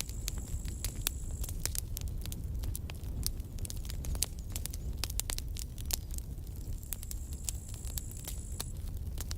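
Wood campfire crackling and popping with frequent sharp snaps over a low steady rumble of burning. A faint high hiss comes and goes twice.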